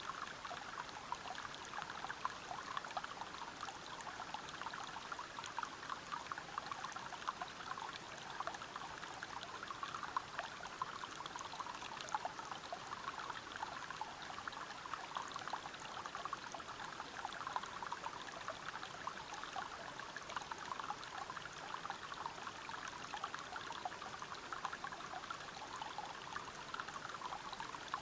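Waterfall and river water flowing steadily over rocks: a continuous rush full of fine splashes.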